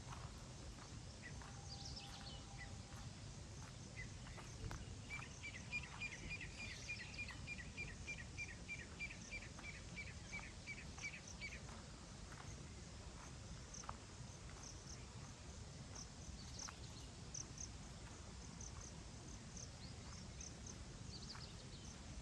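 Birds calling over a low steady background rumble. High short chirps come on and off throughout, and near the middle one bird repeats a short note several times a second for about six seconds.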